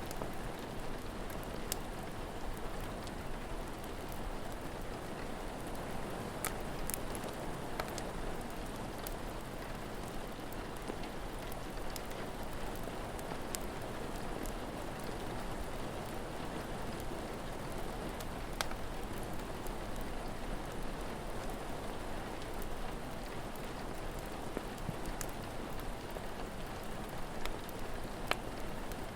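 Steady rain falling, with occasional sharp crackles and pops from a wood fire.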